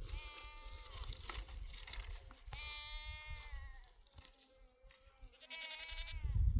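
Goats bleating: three separate held calls, each falling in pitch at its end, over a low rumble that grows loudest near the end.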